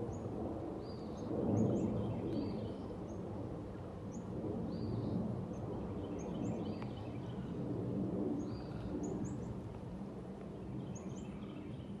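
Birds calling with short, high chirps repeated through, over a low rushing noise that swells about a second and a half in and again around eight seconds in.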